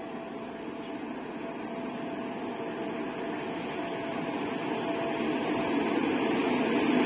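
An electric locomotive hauling a passenger train approaches along the track, its steady rumble and hum growing louder.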